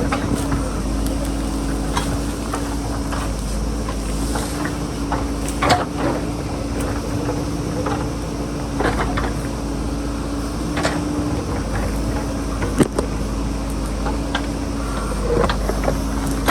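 JCB backhoe loader's diesel engine running steadily, with a few sharp knocks over it, the loudest about two-thirds of the way in.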